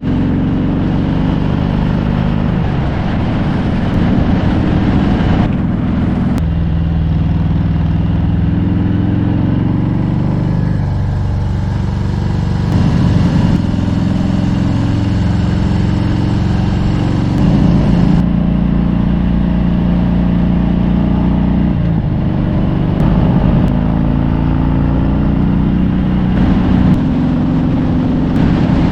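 V-twin motorcycle engine running at road speed, its note stepping up or down a few times as the throttle and gears change.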